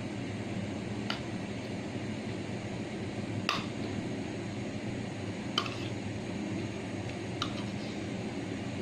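Eating sounds: four short sharp clicks, spaced about two seconds apart, over a steady low hum.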